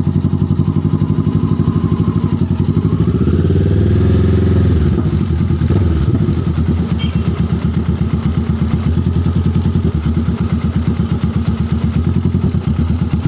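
Motorcycle engine running with a fast, even chugging beat, revving up about three seconds in and dropping back a couple of seconds later.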